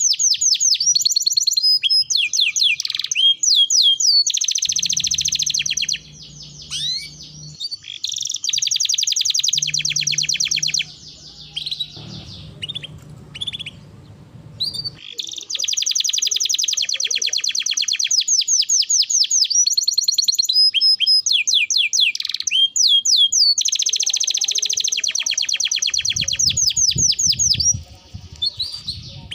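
Domestic canary singing: long runs of very fast, high repeated notes (the rolling trill), each lasting several seconds, broken by short pauses filled with single chirps and slurred whistles.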